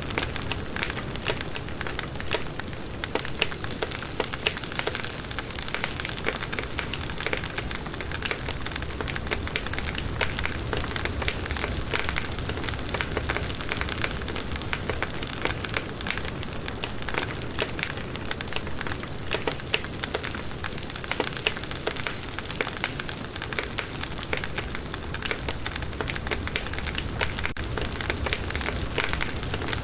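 Firewood burning in a campfire, crackling and popping steadily with many small snaps over a constant hiss of flame.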